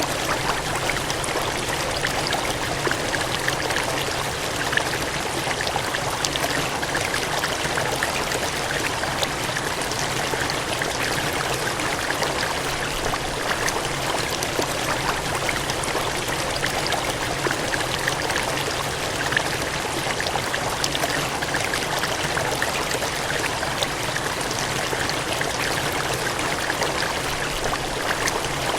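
Water gushing and cascading in a steady, unbroken rush, with fine splashing detail throughout.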